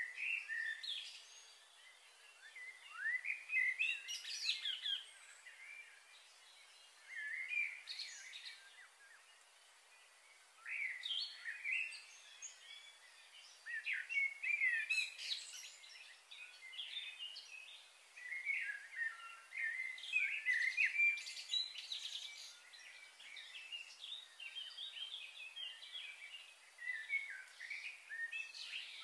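Small birds chirping and twittering in bouts of quick, high calls, with short lulls between the bouts.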